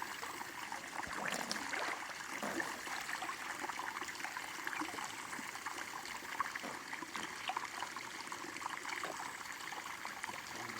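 Shallow river water running and trickling, a steady babble.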